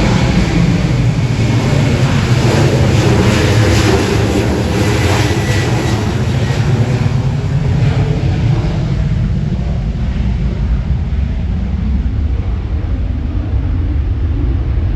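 Jet airliner engine noise, strong at first and fading from about halfway through, leaving a low rumble.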